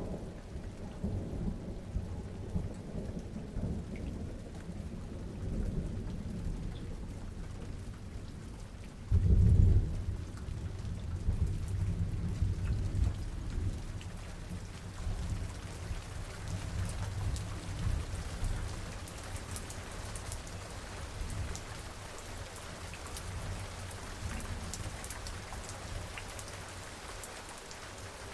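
Summer thunderstorm: steady rain with low rolling thunder. A loud thunderclap comes about nine seconds in, and its rumble dies away over the second half, leaving the rain hiss.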